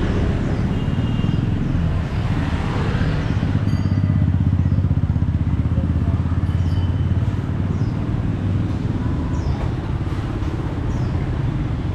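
Street traffic, mostly motorbike engines, making a steady low rumble.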